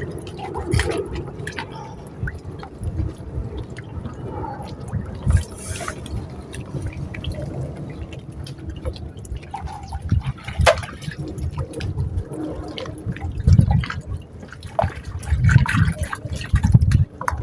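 Sea water sloshing and splashing close by, with irregular low knocks and thumps throughout.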